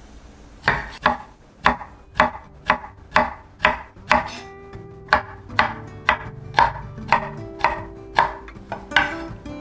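Knife chopping on a cutting board in a steady rhythm, about two cuts a second, with each stroke a sharp knock.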